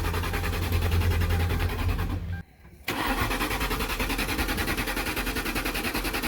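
A Ford's starter cranking the engine in two bursts with a short break about two and a half seconds in; the engine turns over evenly but does not catch. The owner puts the no-start down to the Ford having sat.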